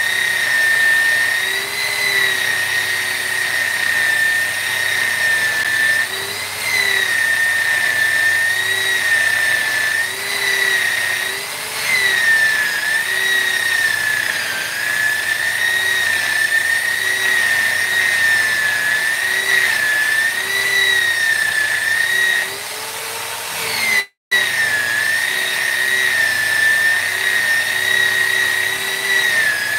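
High-speed rotary carving tool whining steadily on wood, its pitch dipping and recovering again and again as the bit is pressed into the work. It cuts out for an instant about 24 seconds in.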